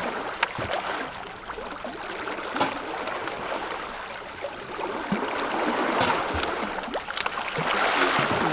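Sea water sloshing and splashing against a small boat's hull, with a few sharp knocks.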